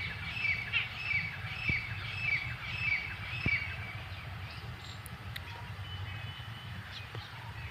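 A bird calling with short repeated chirps, about two or three a second, that fade out about halfway through, over a steady low rumble.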